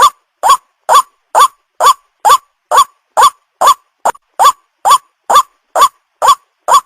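White-breasted waterhen calling: a fast, even series of short, identical notes, a little over two a second, each rising and then dropping in pitch. It is a repeated lure call for young waterhens.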